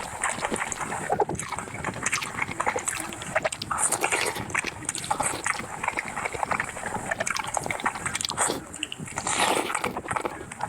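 Close-miked eating: wet chewing and slurping in an irregular run of short, crackly sounds.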